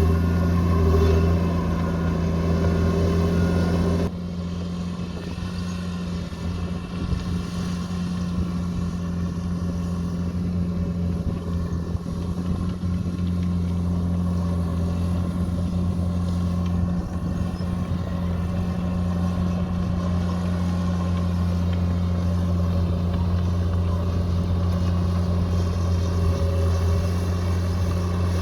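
Diesel engine of a heavy earthmoving machine, likely a bulldozer, running steadily under work with a deep, even drone. About four seconds in, the sound drops abruptly in level, then carries on steadily.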